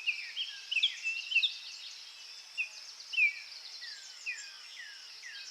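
Small songbirds chirping: a run of short, falling chirps, closely spaced in the first second and a half, then about one every half second. Beneath them is a steady high hiss of natural ambience.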